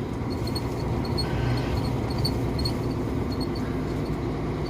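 KAMAZ truck's diesel engine running steadily, heard from inside the cab as the truck rolls slowly, with faint high-pitched squeaks coming through now and then.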